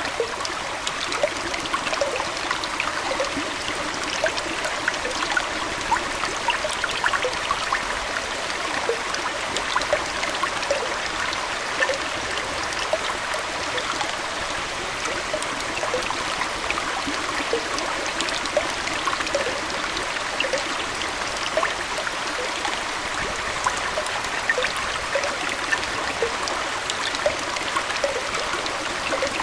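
Aquarium water running and trickling steadily, with many small bubbling, splashing blips through it.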